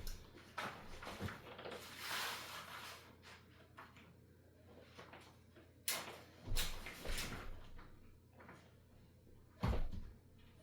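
Handling noises: rustling, with a few irregular knocks and thumps. The loudest thumps come about six seconds in and again near the end.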